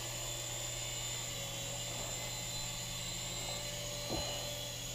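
Swann Micro Attack toy RC helicopter in flight, its small electric motors and rotors giving a steady high-pitched whine and buzz. There is a faint tap about four seconds in.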